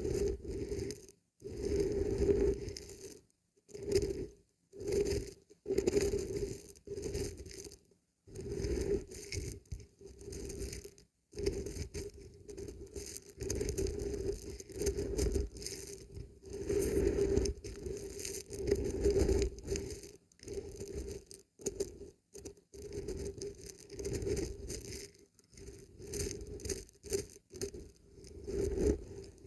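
Dried beans and barberries being shaken, a dry rattling patter that comes in bursts with short pauses between.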